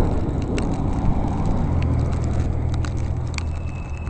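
Gusting blizzard wind buffeting the microphone: a steady rushing noise with a heavier low rumble from about halfway through, and scattered sharp crackling clicks.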